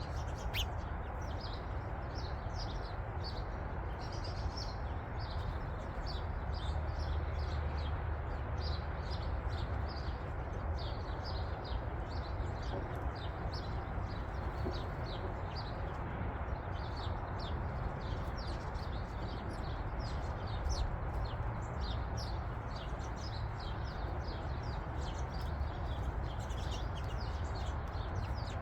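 Small songbirds chirping continually, short falling chirps about two or three a second, over a steady background noise.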